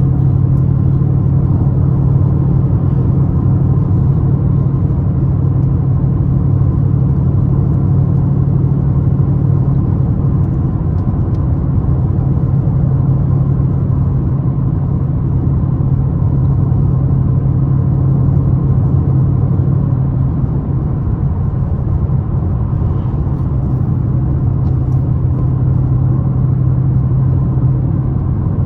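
Ford Mustang GT's V8 engine running in a steady low drone at cruising speed, heard from inside the cabin, mixed with tyre noise from the wet road.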